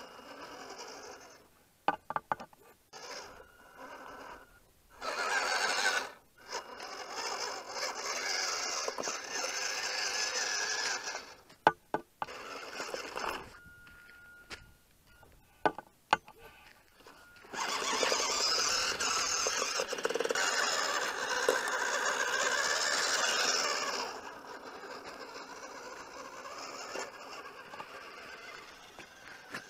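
Small electric RC truck drivetrain, the WPL B-36's motor and metal gearbox, whining in stretches of a few seconds as the throttle is applied, with quieter pauses between. A few sharp clicks come from the drivetrain or the tyres on stones.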